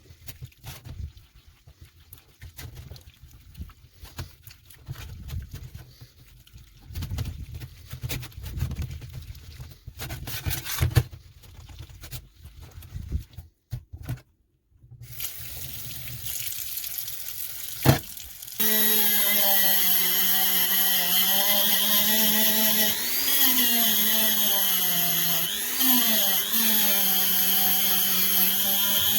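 Irregular clicks and knocks of hand work on small metal parts. After a short break, a small electric power tool starts up and runs steadily. Its pitch dips briefly twice as it is pressed into the work.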